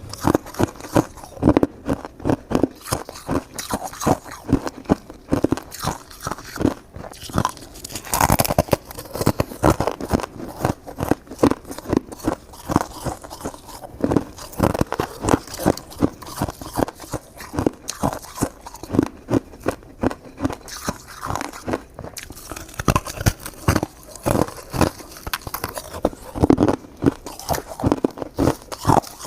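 A person biting and chewing shaved ice, a steady run of crisp crunches several times a second.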